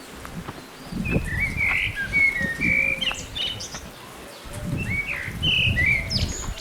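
A songbird singing two short warbling phrases of chirps, about a second in and again near five seconds, over a low rumble of outdoor noise.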